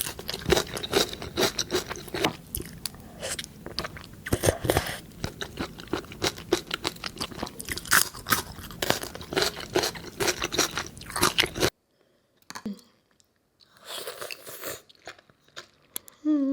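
Close-miked ASMR eating: dense crunching, biting and chewing of crunchy food that cuts off suddenly about twelve seconds in, leaving a few faint mouth sounds.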